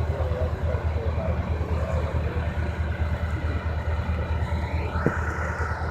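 Diesel locomotive engine's steady low rumble, with faint voices early on. Near the end a train air horn comes in, rising quickly to a steady held chord.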